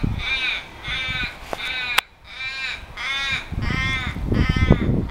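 A bird calling over and over: about eight harsh, drawn calls, roughly two a second, with a short break about two seconds in. Low thuds run beneath the calls in the second half.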